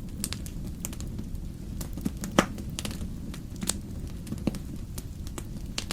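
Wood fire burning in a fireplace: a steady low rumble of the flames with irregular sharp crackles and pops, the loudest pop about two and a half seconds in.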